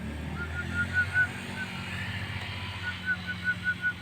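Javan myna (jalak kebo) calling: two runs of short notes repeated evenly at one pitch, about five a second, over a steady low hum.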